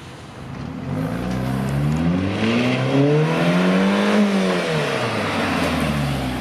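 Car engine revving hard: its pitch climbs for about three seconds, then falls back as the throttle is let off.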